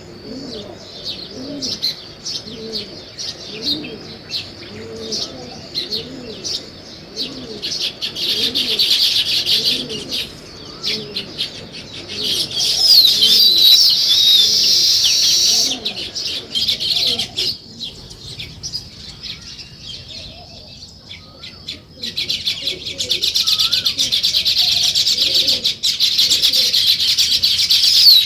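Sparrows chirping constantly, breaking into loud bursts of chattering several times. A low, repeated cooing, typical of a dove, runs under the chirps through the first two-thirds.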